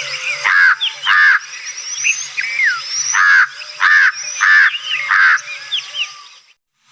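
Large-billed crow (Indian jungle crow, Corvus macrorhynchos culminatus) calling: a series of about six arched caws, with thin high-pitched notes between them. The recording cuts off shortly before the end.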